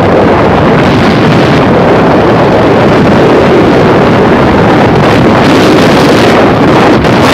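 Loud, steady wind rush buffeting the microphone of a moving bike.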